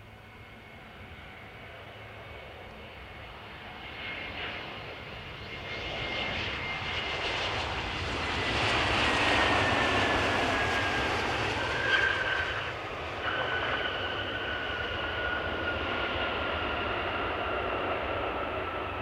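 Jet airliner passing close: its engine rumble swells to a peak about nine seconds in, while a high whine slides down in pitch as it goes by, then eases off. A brief click about twelve seconds in.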